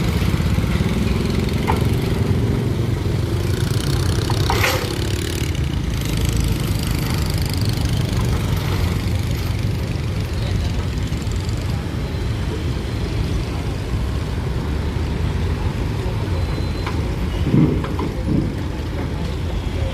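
Steady low rumble of engines idling, with a few brief louder sounds over it: one about four and a half seconds in and two close together near the end.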